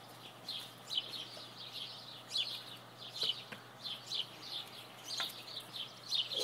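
Small birds chirping, short high calls repeating several times a second.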